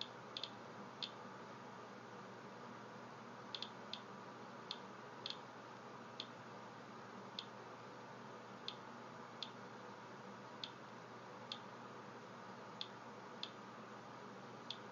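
Geiger counter (Medcom Rad Alert Inspector) clicking at random intervals, about eighteen sharp clicks over a faint steady hiss. Each click is one detected count during a timed count of a rain-soaked paper towel, which comes to about 54 counts per minute against a background of about 37.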